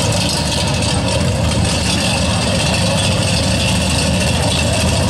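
Drag-racing Corvette roadsters' engines idling loudly and steadily at the start line.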